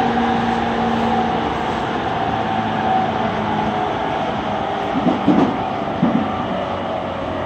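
Running noise inside a JR East E231 series 800 commuter train as it slows into a station, with the traction motor and inverter tones fading out about three to four seconds in. Two short, louder sounds come about five and six seconds in.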